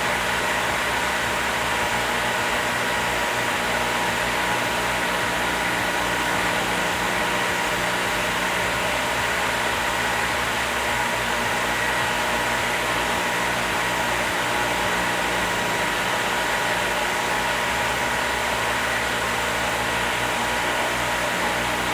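Northfield No. 8HH 30-inch planer with a helical cutterhead running steadily under power: an even mechanical hum with a high, constant whine.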